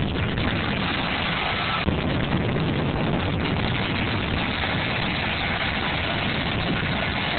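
Jet-engine fire truck running steadily with a loud, even engine noise, a little brighter from about two seconds in.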